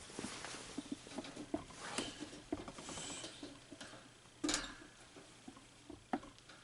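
Electric fan with badly worn bearings, rattling and clicking irregularly as it runs, with a louder clack about four and a half seconds in.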